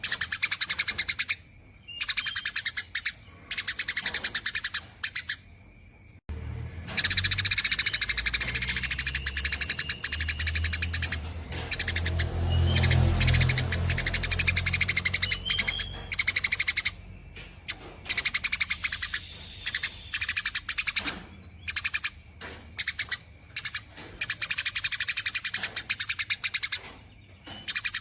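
Eurasian tree sparrow giving long, rapid chattering calls in bursts of a second or more, with short pauses between them. A low rumble sits under the chatter from about six seconds in until about sixteen seconds.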